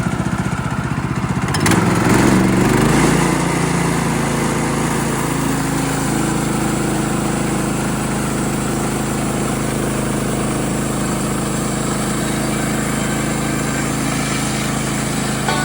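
Portable band sawmill's gas engine idling, then throttled up to full speed about two seconds in and running steadily at speed.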